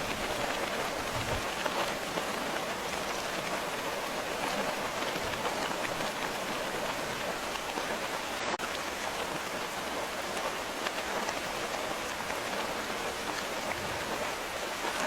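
Steady rain falling: an even hiss of many drops, with a momentary dip in the sound a little past halfway.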